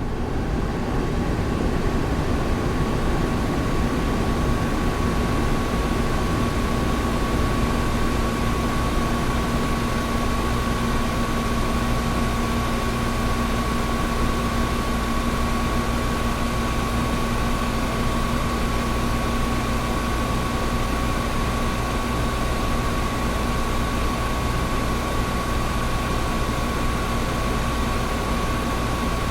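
Air conditioner running steadily: an even rush of air over a low hum, with a thin steady whine above it.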